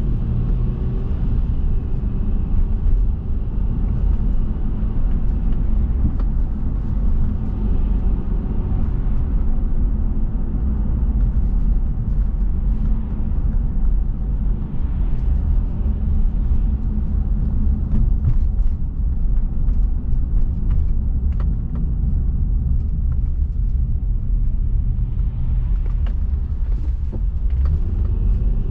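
A car being driven, heard as a steady low rumble of engine and road noise. The engine's pitch shifts near the start and rises again near the end as the car slows and picks up speed.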